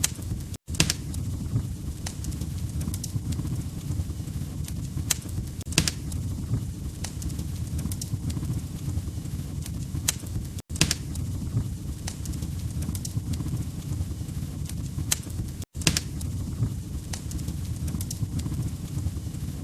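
Log fire crackling, with irregular sharp pops and snaps over a steady low rumble of the flames. It cuts out for an instant three times, under a second in, about ten seconds in and near the end.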